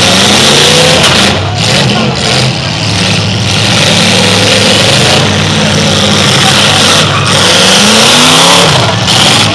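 Demolition derby car engines revving hard, several at once, their pitch sliding up and down over a steady din.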